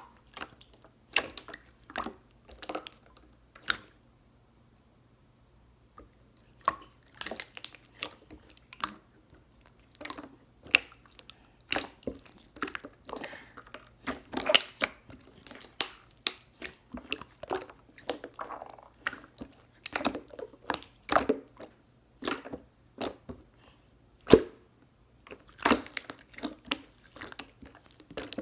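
Close-up, irregular wet clicks and squishes, one after another, with a brief pause about four seconds in.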